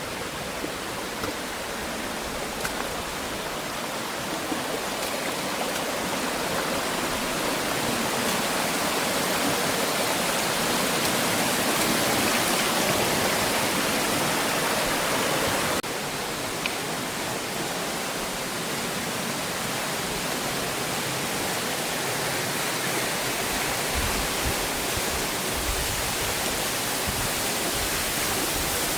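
Rushing water from a small waterfall and its creek, a steady full hiss that grows louder over the first dozen seconds and then drops abruptly in level about 16 seconds in.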